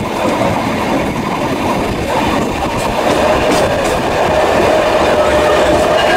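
Passenger train carriages running along the track, heard from on board: a steady rumble and clatter of wheels and cars. A thin, steady, high squeal comes in about halfway through as the train runs through a bend.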